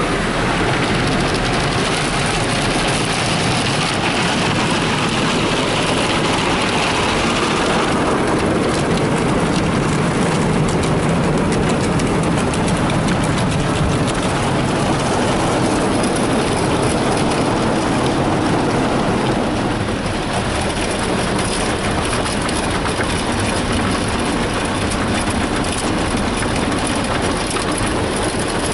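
Ryko SoftGloss XS2 automatic car wash working over the vehicle, heard from inside the cabin: a steady rush of water spray and wash machinery on the body. The sound changes about eight seconds in, the high hiss giving way to a denser patter, and eases slightly later on.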